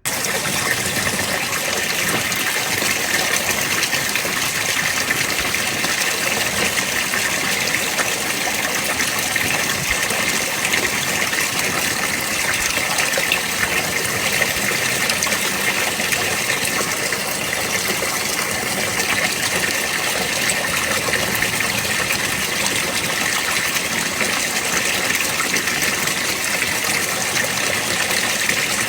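A loud, steady rushing noise that starts abruptly and holds level.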